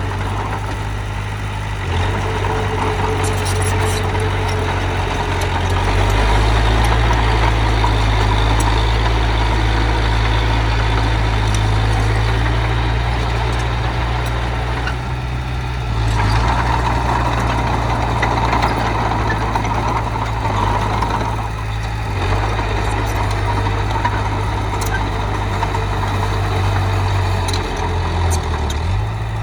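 Heavy machinery engine running steadily, getting louder about six seconds in and easing briefly a few times later on.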